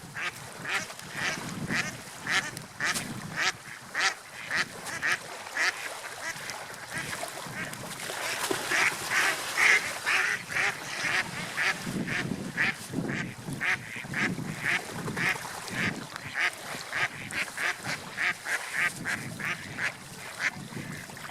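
Seagulls calling over and over, short calls coming a few a second and crowding together about halfway through, over a steady rushing background.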